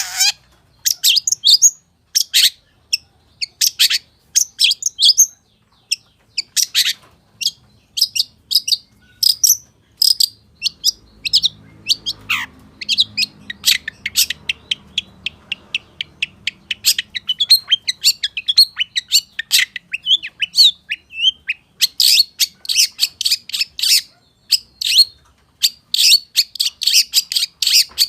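Long-tailed shrike (pentet) in full song: a fast, varied string of short, sharp, high-pitched chirps and chatters, the kind of mimicry-filled song ('full isian') kept birds are trained on. Past the middle the notes come in a dense, rapid chatter.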